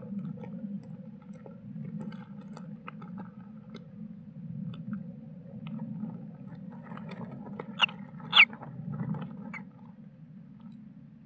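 Kingfisher chicks shifting and scraping in the nest, with many small clicks and rustles over a steady low rumble. About eight seconds in there are two short, sharp, high squeaks, the second dropping slightly in pitch.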